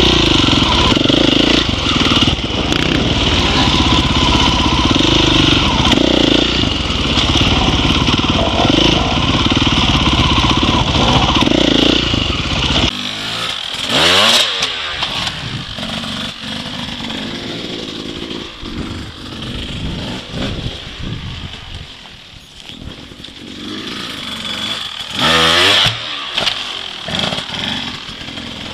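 Dirt bike engine running hard for about the first thirteen seconds, then dropping to a lower, uneven level, with two brief loud revs about halfway through and near the end.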